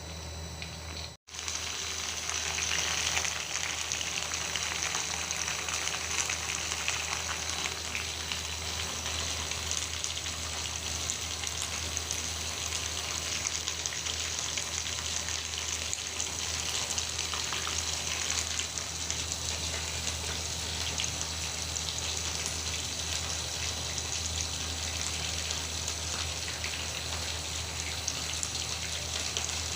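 Food frying in hot oil in a pan: a steady dense sizzle with crackling, after a brief cut to silence about a second in. A low steady hum runs underneath.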